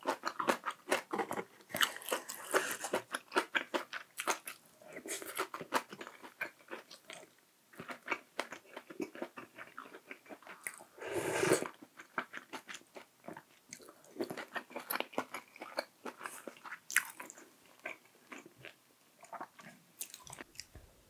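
Close-miked eating: a person chewing and biting food, with many quick wet mouth clicks and some crunching. About eleven seconds in comes one louder, longer rushing noise lasting about a second.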